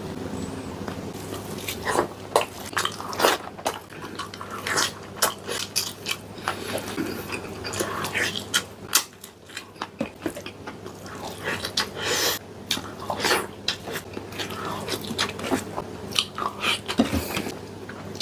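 Close-up sounds of a person eating sardines mukbang-style: chewing, lip smacks and sharp wet clicks coming irregularly several times a second.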